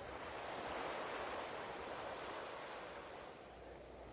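Nature ambience: insects chirping in short, high pulses about twice a second over a soft, steady rushing noise.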